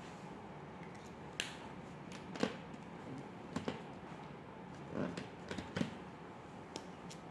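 A handful of light, irregular clicks and taps over a steady hiss.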